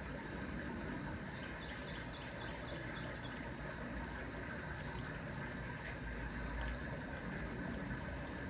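Steady outdoor backyard ambience: an even background hiss with faint, short chirps repeated in a quick series, from small birds or insects.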